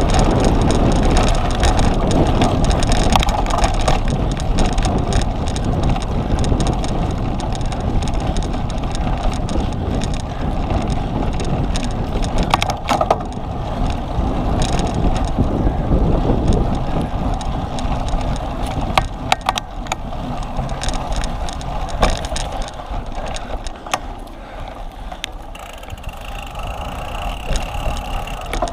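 Cyclocross bike ridden hard over rough ground, with wind buffeting the microphone and the bike rattling with many sharp clicks and knocks. A thin high steady tone sounds briefly near the end.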